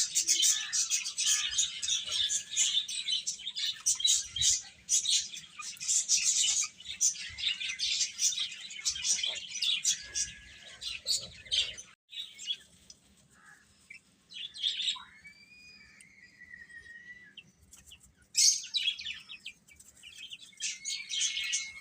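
Domestic chicks peeping in a dense, continuous chorus of high chirps. About twelve seconds in it drops suddenly to a few scattered peeps and some longer gliding calls, then a thick burst of peeping returns near the end.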